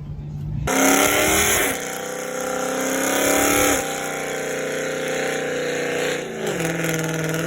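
Car engine revved: the pitch climbs quickly, holds steady at high revs for several seconds, then drops back to a low idle near the end.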